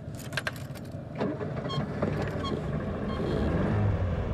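Car key clicking in the ignition, then the car's engine starting and settling into a low idle.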